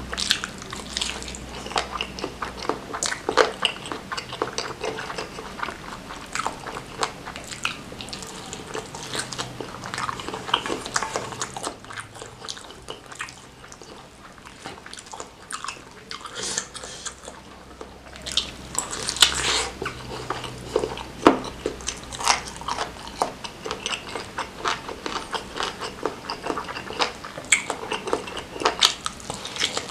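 Close-miked chewing and biting of a chili-sauced beef tendon meatball (bakso urat), with rapid wet clicks and crunchy bites; the chewing goes softer for several seconds partway through, then picks up again.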